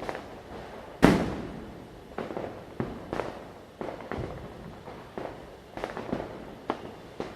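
Firecrackers going off at irregular intervals, each a sharp bang with an echoing tail. The loudest bang comes about a second in, followed by a string of smaller, more distant bursts.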